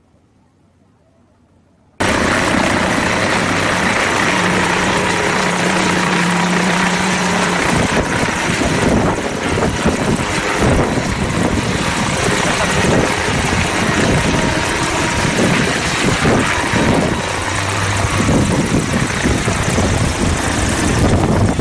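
Loud aircraft noise cutting in suddenly about two seconds in: a steady, dense rush with a low hum for a few seconds, becoming rougher and more uneven later.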